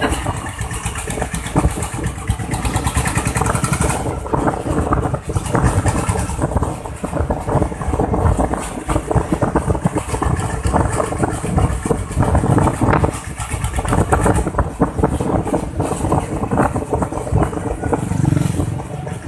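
Ruggerini diesel engine, converted to power a motorbike, running steadily with a rapid, even pulse.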